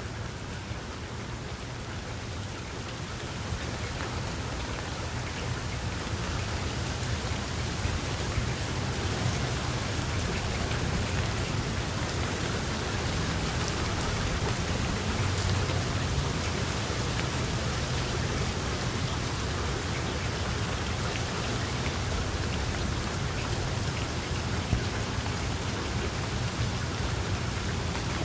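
Steady rain falling, with scattered individual drops ticking through the hiss, growing a little heavier over the first several seconds.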